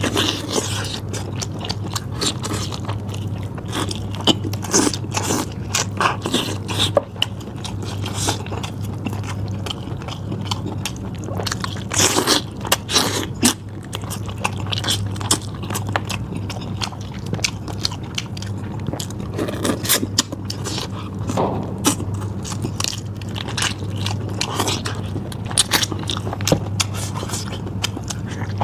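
Close-miked eating sounds: meat being bitten, torn and chewed, with many short wet clicks and crunchy snaps, over a steady low hum.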